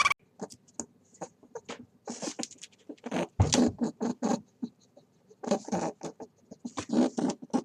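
A small animal making a run of short, irregular scratchy clicks and rustles, with brief pauses in between.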